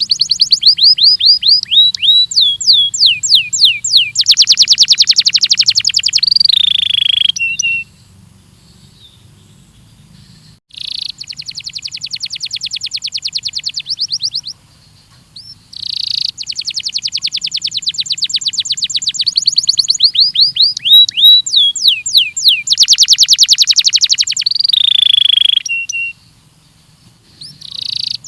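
Belgian canary singing in long phrases of rapid trills and quick downward-sliding notes, with pauses of a second or two between phrases.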